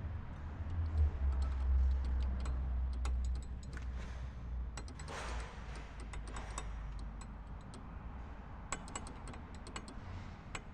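Car's front wheel giving an irregular light clicking and rattling over a low rumble of the car rolling. The brake pad is loose in the caliper because its retaining clip is missing.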